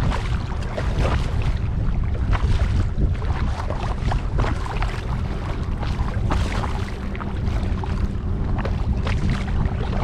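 Kayak paddle dipping and water splashing and dripping around the kayak, in uneven spurts. A steady low rumble of wind buffeting the microphone runs underneath.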